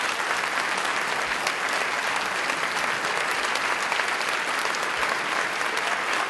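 Audience applauding steadily, a dense sustained clapping from a large crowd in a hall.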